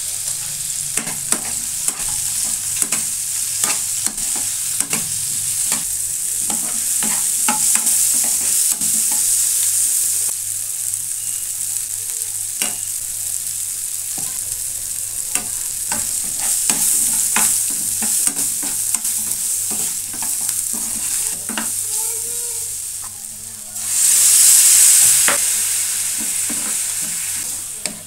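Onions, tomatoes, cashews and garlic sizzling in hot oil in a steel kadai while a spatula stirs, scraping and knocking against the pan many times. Near the end the sizzle surges much louder for a second or two as liquid hits the hot pan, turning the fry into a gravy.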